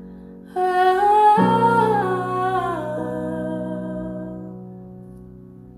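A singer holding a wordless "ahh" over sustained piano chords. The voice comes in about half a second in, steps down in pitch twice, and fades away while the chord rings on.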